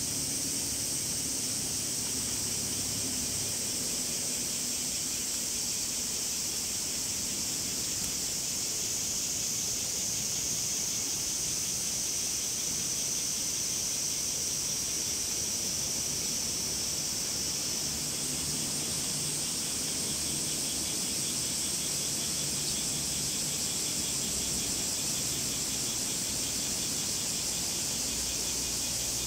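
Cicadas calling in a steady, continuous high buzz. A slightly lower, pulsing buzz joins in about two-thirds of the way through.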